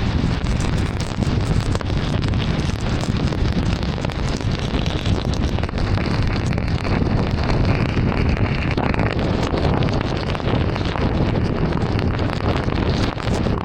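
Heavy rain pelting a moving car, mixed with the hiss of tyres on a flooded road: a dense, steady rushing noise. A faint high tone rises over it for a few seconds in the middle.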